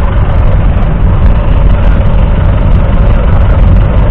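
John Deere 1120's 2.7-litre three-cylinder diesel engine running steadily.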